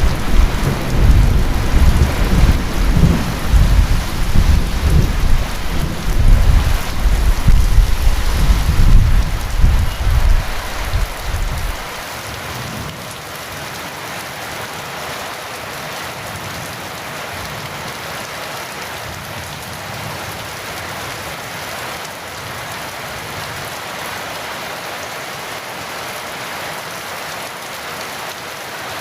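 Heavy rain falling steadily, with a long, loud rumble of thunder underneath that cuts off suddenly about twelve seconds in, leaving only the even hiss of the downpour.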